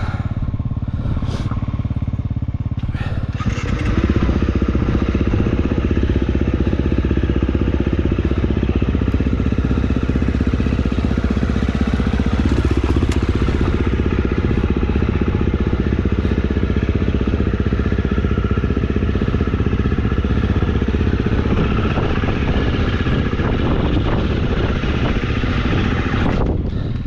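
KTM enduro dirt bike engine, running low for the first few seconds, then opening up about three and a half seconds in and pulling hard and loud until it eases off just before the end.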